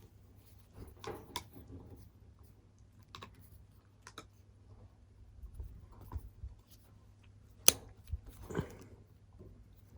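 Pliers cutting through an electrical extension cable and being handled: scattered sharp snips and clicks, the sharpest about three-quarters of the way in.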